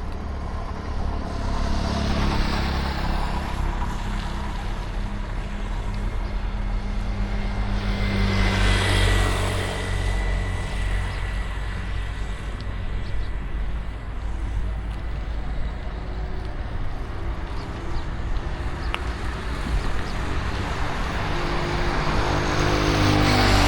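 City street traffic heard from a bicycle: a steady low rumble, with vehicles passing close by about two seconds in, around nine seconds in, and again near the end.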